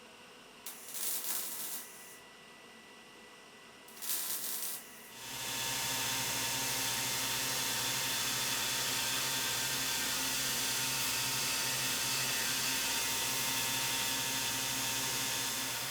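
Two short hissing sprays, each about a second long, then a motor-driven tool starts and runs steadily with a loud hiss over a low hum.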